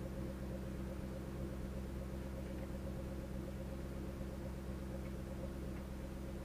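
A car engine idling steadily, an even low hum with no revving.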